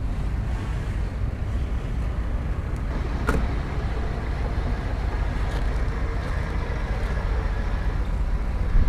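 Heavy diesel earthmoving machinery running with a steady low rumble, and one short knock about three seconds in.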